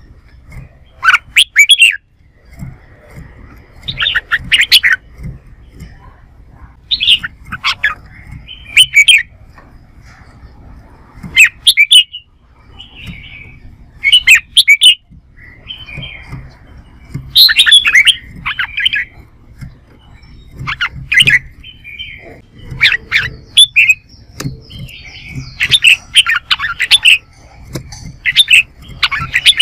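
Red-whiskered bulbul singing its combative fight song: short, loud phrases repeated every one to three seconds.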